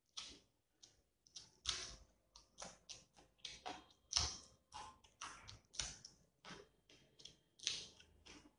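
Close-up chewing of a raw green chili: irregular crisp crunches, about two to three a second.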